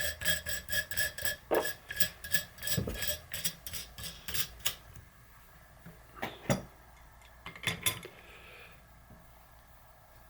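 Nut spun down a threaded rod against a stack of loose steel washers in a makeshift bearing press: a quick run of metallic clicks and clinks for about four and a half seconds. Two short clusters of clinks follow later.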